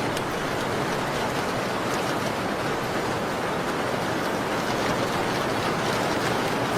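Steady rain falling, an even, unbroken hiss, with a few faint sharp ticks here and there.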